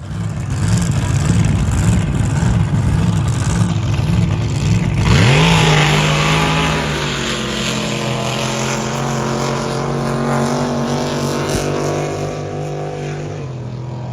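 Big race-boat engine idling with a lumpy, wavering beat, then revving up sharply about five seconds in and holding high revs that slowly ease off.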